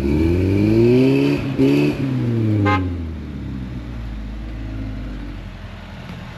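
Off-road 4x4 engine revving hard, its pitch climbing in the first second, then falling back over a few seconds to a low, steady run. A brief high-pitched sound cuts in about two and a half seconds in.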